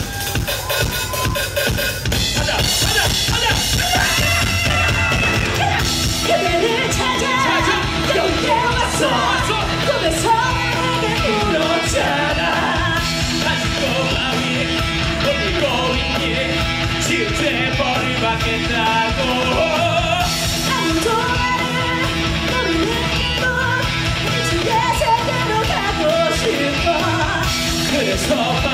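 Live rock band playing loud, steady rock music with drum kit and electric guitar.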